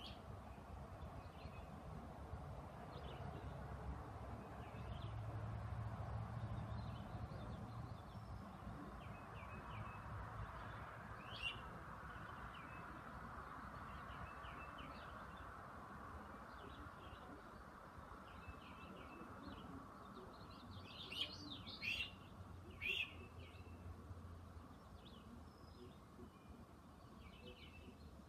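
Birds chirping faintly, with short calls scattered throughout and a few louder chirps, over a low steady background hum.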